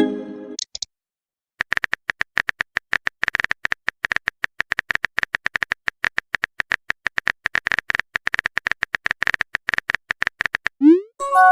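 Phone keyboard typing sound effect: a rapid, irregular run of small clicks, several per second. It opens with a short message tone and ends with a quick rising whoosh and a chime, the sound of a message being sent.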